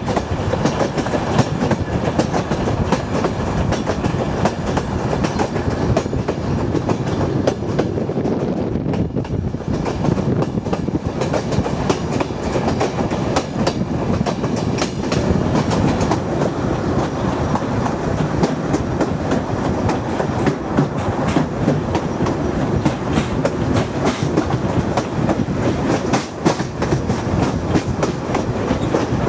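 Turkish State Railways mixed freight-passenger train running steadily along the track, its wheels clicking over the rail joints in a constant rumble.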